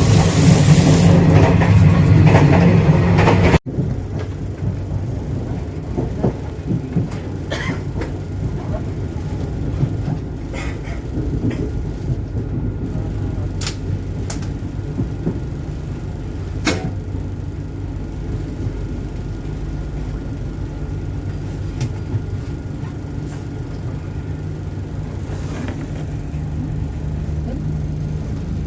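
Argo Sindoro passenger train under way: a loud, full rush of running noise for the first few seconds that cuts off abruptly, then the steady low rumble of the moving carriage with a few scattered clicks and knocks.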